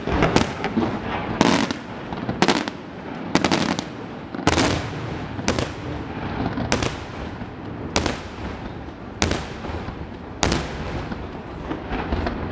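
Aerial fireworks shells going off in a display, about a dozen sharp reports at roughly one a second, each followed by an echoing tail.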